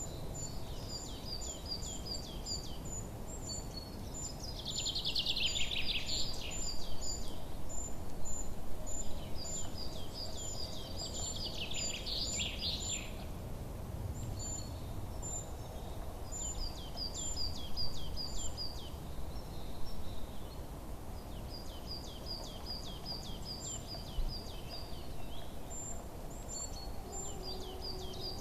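Small songbirds chirping in quick runs of short high notes, with two louder trilling songs about five seconds in and again around the middle, over a steady low background rumble.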